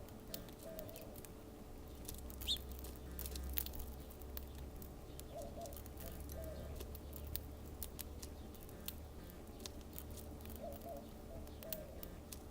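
Dove cooing: a low phrase of several coos, repeated three times about five seconds apart, over many scattered sharp clicks and one short high chirp.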